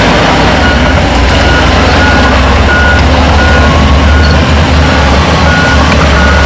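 Heavy diesel machinery engine running loudly, with a reversing alarm beeping at an even pace, about one and a half beeps a second, starting about a second in.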